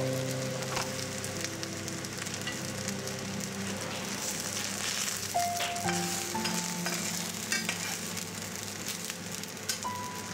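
Potato and spring onion fritters sizzling and crackling in oil in a stainless steel frying pan, with a few light clicks of a metal spatula against the pan. A soft melody plays underneath.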